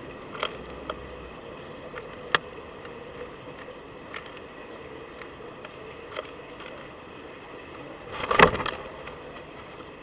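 Light clicks and taps at a garden feeder visited by a squirrel and birds, over a steady hiss. There is a sharp click about two seconds in and a louder knock with a brief clatter near the end.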